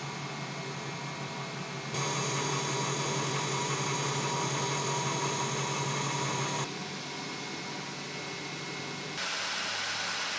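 An electric motor running steadily with a hum and hiss. It grows louder about two seconds in, drops back near seven seconds and rises again near nine seconds.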